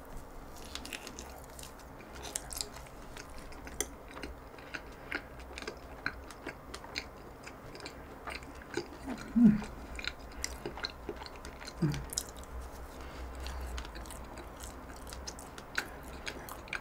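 Close-miked chewing of a soft cream-filled donut, with many small wet mouth clicks and smacks. Two brief hummed "mm" sounds falling in pitch come near the middle, the first one the loudest.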